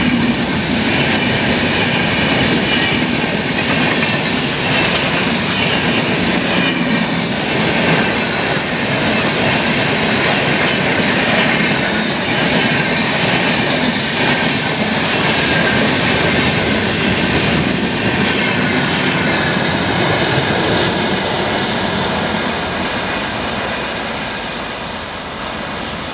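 Indian Railways LHB passenger coaches rolling past at speed: a loud, steady rush of wheels on rail with a high, wavering wheel squeal. It fades over the last few seconds as the train draws away.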